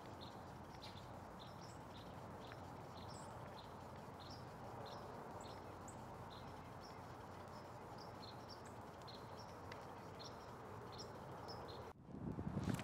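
Faint outdoor background of small birds chirping, short high chirps repeating every half second or so over a steady low hiss. Near the end the sound cuts out for a moment and a louder low rumble begins.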